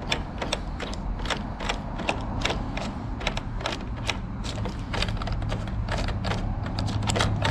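Rapid, slightly uneven mechanical clicking, about three clicks a second, as a clamping fixture is tightened down onto a steel door.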